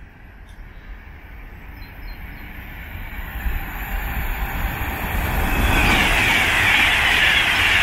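Avanti West Coast Class 390 Pendolino electric train approaching and passing through the station at about 125 mph. A rushing noise grows over the first few seconds and is loud from about two-thirds of the way in.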